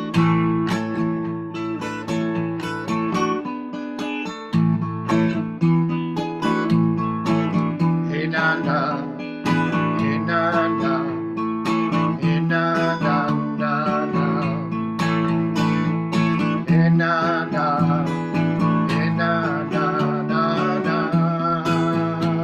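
Acoustic guitar strumming and picking an instrumental passage of a folk song. From about eight seconds in, a wavering melody line with vibrato plays above the chords.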